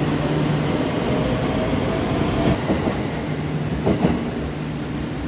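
Limited express Shirasagi electric train running at speed, heard from inside the carriage: a steady rumble with a humming tone, and two short clicks from the wheels in the second half.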